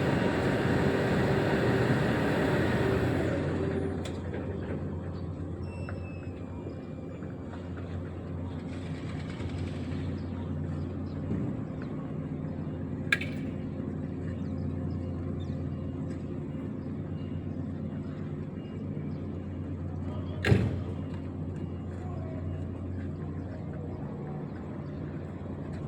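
Reach stacker's diesel engine running, loud at first and settling to a steady low idle about three and a half seconds in. A sharp click comes about halfway through, and a heavier thud about two-thirds of the way in.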